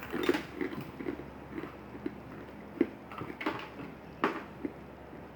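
Chewing and crunching on hard, crispy lumps of boiled-down Coca-Cola, with irregular sharp cracks as the brittle pieces break between the teeth.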